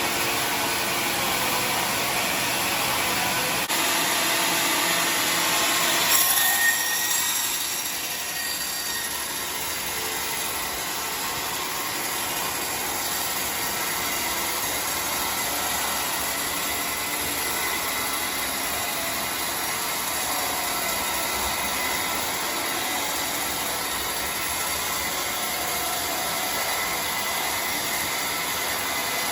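Sawmill saw running through a large log, a steady mechanical noise with a brief louder screech about six seconds in, after which it runs on slightly quieter.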